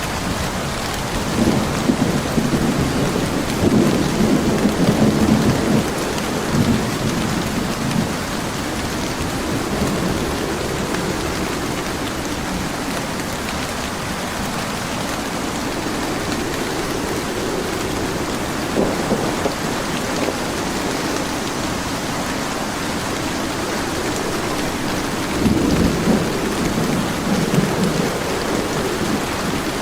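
Steady heavy rain with rolls of thunder: a long rumble in the first few seconds, a short one midway, and another near the end.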